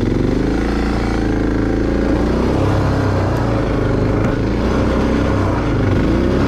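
Single-cylinder Suzuki DR dual-sport motorcycle engine under load on a steep dirt climb, its pitch rising and falling with the throttle and climbing again near the end.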